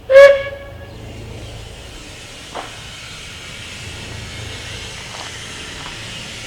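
A 15-inch gauge steam locomotive gives one short, loud whistle toot, then steam hisses steadily, with a single click about two and a half seconds in.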